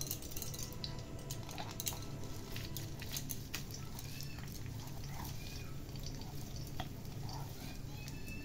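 Grated coconut, sugar and milk-powder mixture crackling faintly in hot ghee in a kadai, with scattered small pops and clicks over a low steady hum.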